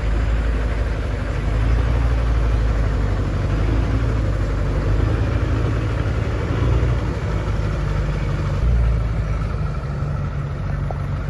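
Engine of a small river boat running steadily, with a low, even hum.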